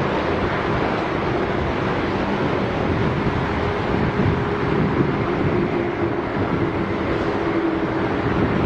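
Boeing 787 jet engines running: a steady, loud rushing noise with a low hum that wavers slightly in pitch.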